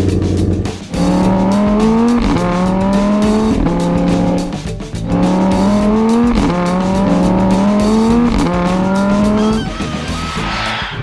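Cartoon soundtrack of music with a racing-car engine sound effect revving up again and again, each rise in pitch dropping back and climbing once more, then a hissing screech near the end.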